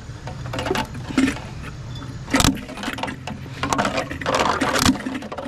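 Knocks and clattering of discarded electric fans, plastic and metal, being picked up and handled, a dozen or so irregular hits with a few louder ones. A vehicle engine idles steadily underneath.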